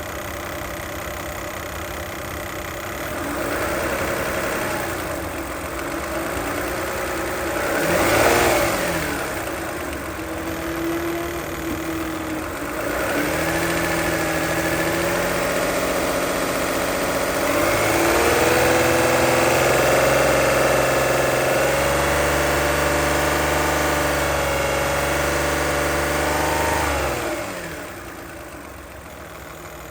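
Toyota 2GR-FE 3.5-litre V6 idling and being revved: a quick blip about a third of the way in, then held at raised revs twice, the second time for several seconds, before dropping back to idle near the end. The engine has a loud rapid ticking at idle that shows only once it is warmed up.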